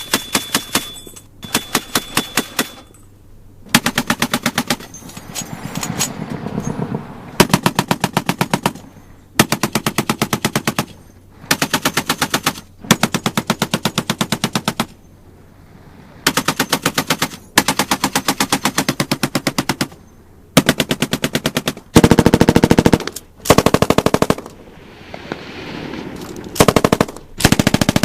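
Rapid automatic gunfire from a machine gun, fired in repeated bursts of one to two seconds with short pauses between them, about a dozen bursts in all.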